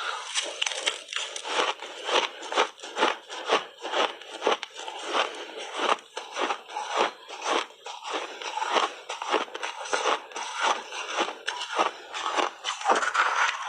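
Ice being bitten and chewed, a close, unbroken run of sharp crunches, several a second.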